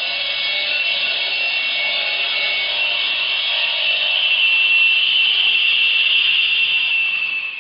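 Brick being cut on a bench brick-cutting saw: a steady high grinding whine that grows a little louder in the second half.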